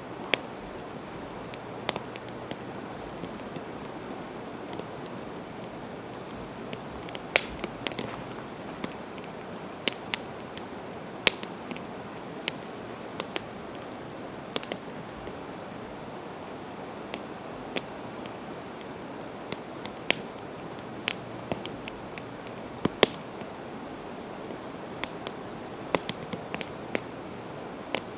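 Campfire of split evergreen wood crackling, with sharp irregular pops over a steady hiss. Near the end a cricket starts chirping at about two chirps a second.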